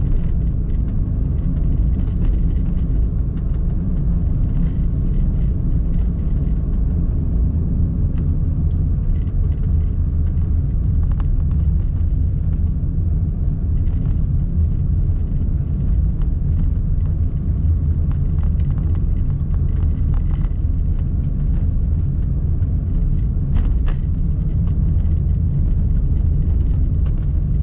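Steady low road rumble of a Honda N-BOX kei car driving along, with its small engine and tyre noise blended together.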